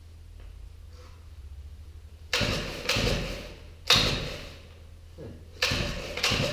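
Small four-stroke engine being pull-started three times, each yank of the recoil starter cord cranking it over in a sudden burst that dies away within a second. It does not catch and run.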